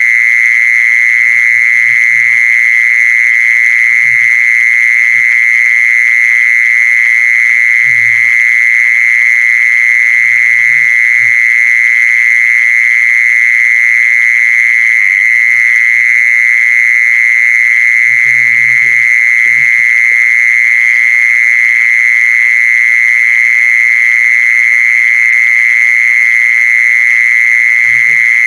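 A continuous, high-pitched trilling animal call held at one steady pitch with no breaks, the call used to lure in the female khmol. Faint low knocks sound a few times underneath.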